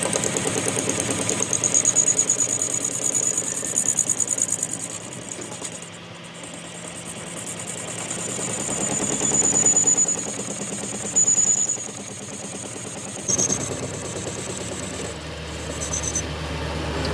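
An engine running with a fast, even pulse, swelling louder and falling back several times, with a sudden change in the sound about 13 seconds in.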